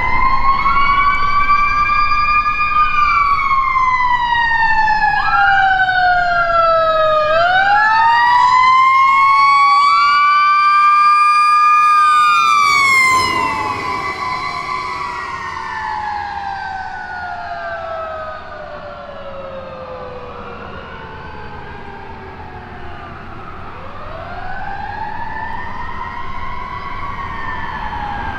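Fire truck siren wailing, its pitch rising and then falling slowly over several seconds at a time. It grows fainter about halfway through as the truck moves off.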